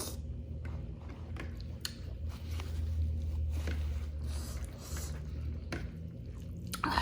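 Close-miked chewing of a mouthful of rice and curry: wet mouth clicks and soft squishing over a steady low rumble.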